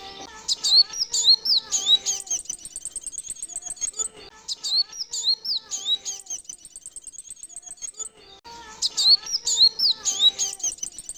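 Male sunbird (kolibri wulung) song used as a lure call: rapid high-pitched chirps and twittering trills in bursts, the same phrase coming round again about every eight seconds.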